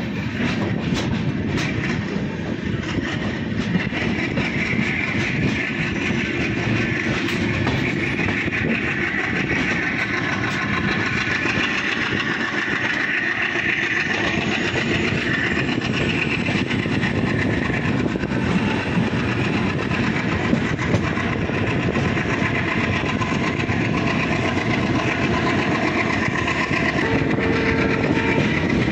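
Indian Railways express train running on the track: steady rolling noise with wheel-on-rail clatter and a few sharp clicks in the first seconds. A steady horn-like tone comes in near the end.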